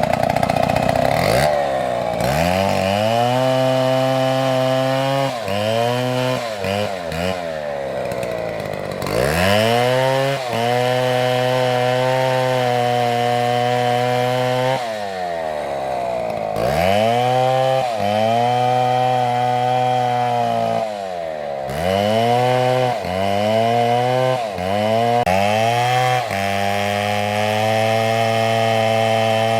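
STIHL two-stroke chainsaw cutting through an oak log, its engine pitch dropping and climbing again several times as it loads up in the cut and frees up, with steady high-revving stretches in between.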